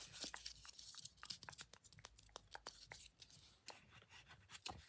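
Fingers scratching and tapping a small handmade craft object close to the microphone: quick, irregular scratchy clicks and ticks, slightly denser early on.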